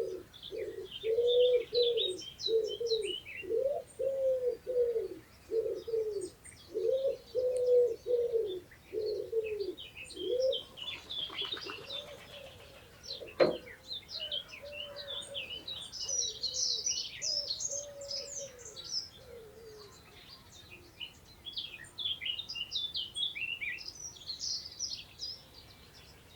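Wild birds: a low cooing call repeated evenly, about every two-thirds of a second, loud for the first ten seconds and then fainter, under high chirping and twittering from small songbirds. A single sharp click comes about halfway through.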